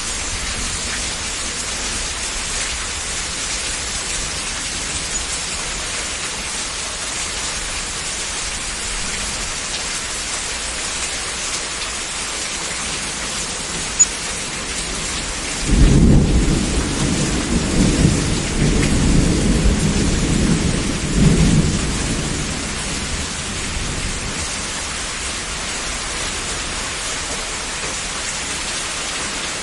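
Heavy rain falling steadily. About halfway through, a low rolling thunder rumble swells in for about six seconds with several surges before fading, just after a single sharp click.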